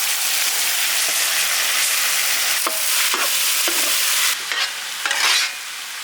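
Chopped onion and tomato frying in hot oil with whole spices: a loud, steady sizzle, with a spoon stirring through it from about the middle. The sizzle eases after about four seconds.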